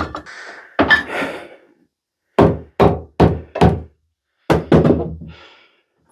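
A series of knocks and thuds, as of things being struck or set down hard: two near the start, then four quick knocks in a row about two and a half seconds in, and a few more near the end.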